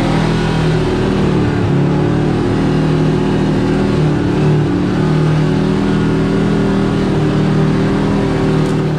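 Side-by-side UTV engine running steadily under light throttle, its pitch wavering a little as it drives along a rough trail, heard from on board.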